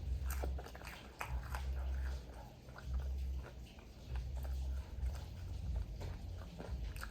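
Close-up chewing of crunchy fried chicken: small crackling crunches over rhythmic low jaw thuds.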